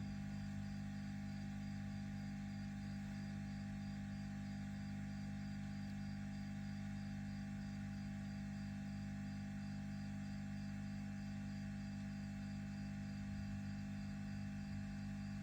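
A steady low hum made of several constant tones that do not change; nothing else happens.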